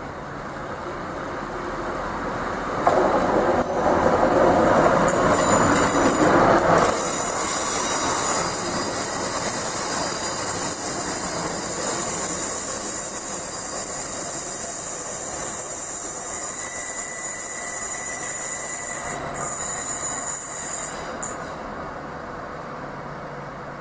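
Class 950 track-recording unit 950001, a diesel multiple unit, running past at close range. It builds up over the first few seconds and is loudest from about 3 to 7 s. Then a steady, high-pitched wheel squeal carries on as the unit rounds the curve, and it stops suddenly near the end.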